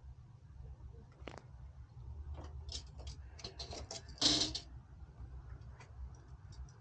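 Small hard parts being handled: a string of light clicks and rattles, with a louder clatter about four seconds in, over a low steady hum.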